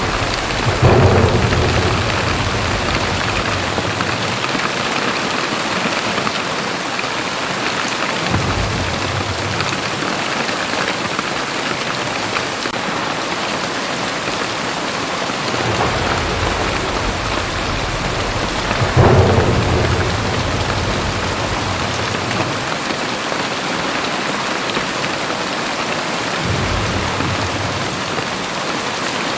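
Very heavy rain pouring steadily, with deep low rumbles rising and fading several times; the two loudest come about a second in and about two-thirds of the way through.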